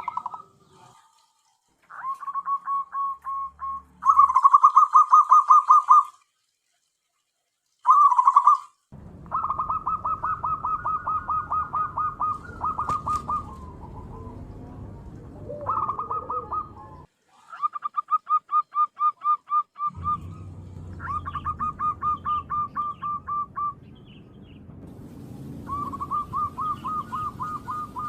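Zebra doves (perkutut) calling: bouts of quick, repeated cooing notes, a lure call used to draw wild doves. The sound cuts off abruptly twice, leaving a couple of seconds of silence each time.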